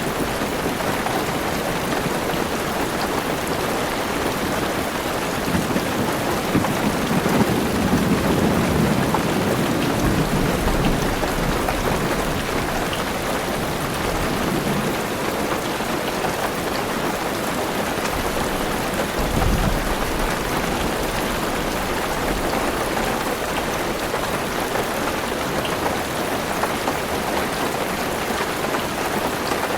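Heavy rain pattering steadily on a car roof, with a low roll of thunder building about six seconds in and fading by about eleven, and a shorter rumble about two-thirds of the way through.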